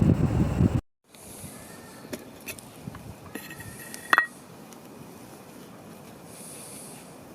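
A loud low rushing noise cuts off abruptly under a second in. After it comes a quiet stretch with scattered light clicks and taps, and about four seconds in one sharper metallic clink that rings briefly, like cookware or a mug being handled.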